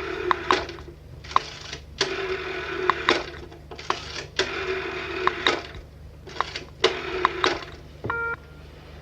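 Old telephone's mechanical bell ringing in several rattling bursts, each between about half a second and a second and a half long. A short electronic beep follows near the end.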